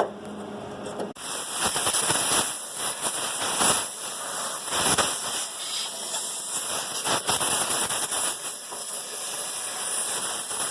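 Welder arc crackling and hissing as a bead is laid over a rust hole in the Jeep's steel. The hiss starts about a second in, runs with an uneven crackle throughout, and cuts off sharply near the end.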